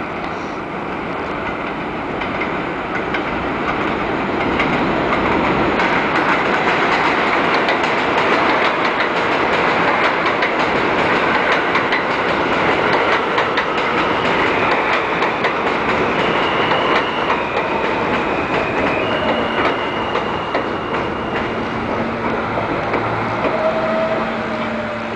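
R160A subway train on an elevated line: a steady rumble with wheels clattering over the rail joints, growing louder over the first few seconds. About halfway through, a few steady high tones join in, and lower steady tones follow near the end.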